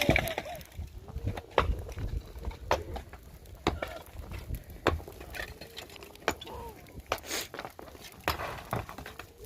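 A series of irregular knocks and thuds, roughly one a second, with faint pitched calls or voices in the background.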